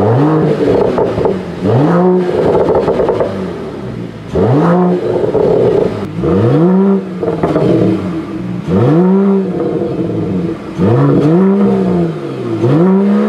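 Mercedes-AMG E53's 3.0-litre turbocharged inline-six engine and exhaust being revved in a series of short blips, about seven or eight, each note climbing quickly and dropping back.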